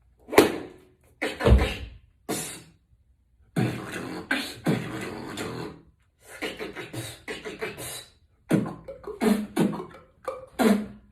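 A person beatboxing: mouth-made drum hits, including a deep kick about a second and a half in, then two longer stretches of dense vocal percussion and a run of quick hits near the end.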